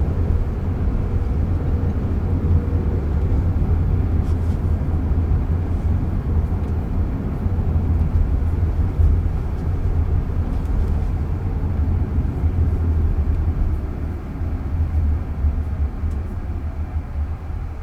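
Car cabin noise while driving: a steady low road and tyre rumble, growing quieter near the end.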